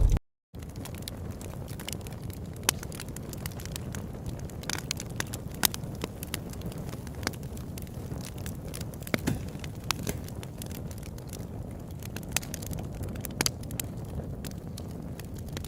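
Fire crackling: irregular sharp pops and snaps over a steady low rumble, starting after a brief silence.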